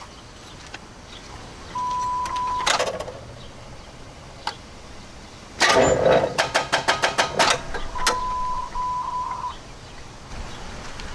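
1988 Chevrolet Camaro IROC-Z's starter turns the engine over for only a fraction of a crank, then the starter solenoid chatters in fast clicks, about eight a second, for over a second: the battery is failing under load. A steady beep tone sounds briefly before the crank and again after it.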